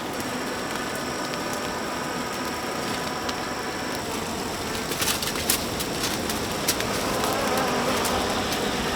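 A fire burning with a steady hiss and scattered sharp crackles and pops, a cluster of them about five to six and a half seconds in.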